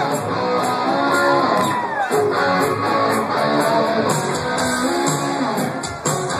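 Live rock band playing, led by electric guitars with a choppy chord riff and sliding string bends, over bass.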